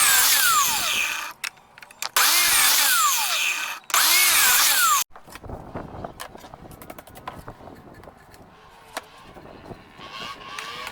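A power drill running in three bursts, its motor pitch rising and falling within each, the last ending abruptly about five seconds in; then light scattered clicks and knocks.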